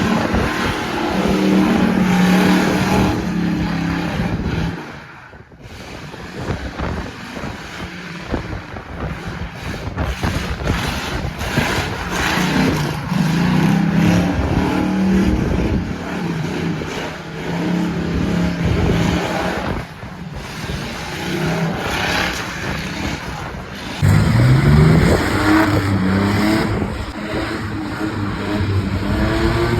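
Car engine revving hard in repeated bursts, the pitch stepping up and down, with one sharp rising rev late on, over a steady hiss.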